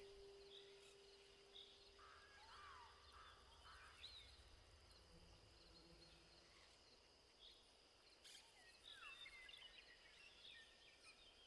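Near silence with faint, scattered bird chirps in the background. A low held tone fades out over the first few seconds.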